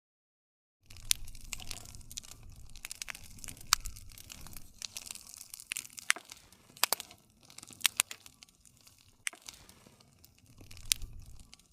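Wood campfire crackling, with many sharp pops and snaps over a low rumble of burning. The sound starts about a second in after a brief silence.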